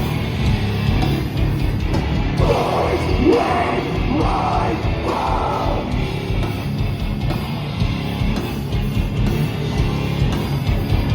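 Live metalcore band playing loud, with distorted guitars and drums. A vocalist screams three times in a row a couple of seconds in.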